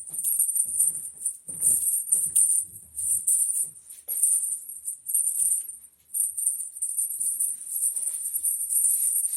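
A cat toy's little bell jingling hard as cats bat and chase it, with soft thumps and scuffles mixed in and a short lull about six seconds in.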